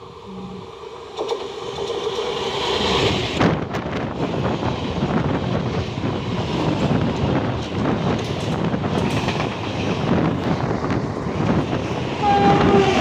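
Electric local train (EMU) passing close by at speed, its rumble and wheel clatter over the rail joints growing louder as it approaches. Its horn sounds steadily for the first few seconds. Near the end a second horn sounds, from the electric locomotive approaching on the next track, its pitch sliding slightly down.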